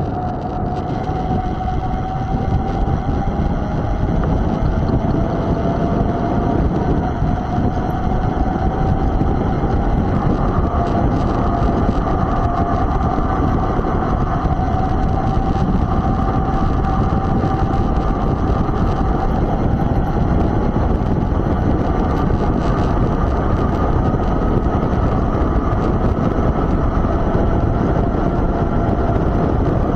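Mountain bike in motion: steady wind rush over the microphone with rolling noise, and a faint whining tone that slowly drifts up and down in pitch.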